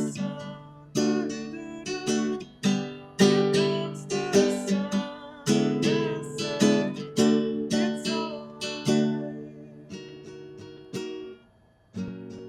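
Background music: acoustic guitar playing plucked and strummed chords, each note ringing out and fading, with a brief pause near the end before the next chord.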